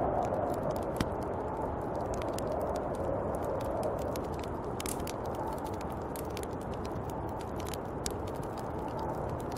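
Snowstorm wind blowing as a steady rushing noise that slowly swells and eases, with scattered light ticks and crackles.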